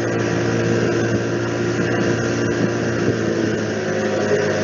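Motorboat engine running steadily at speed, a constant hum with a few steady tones.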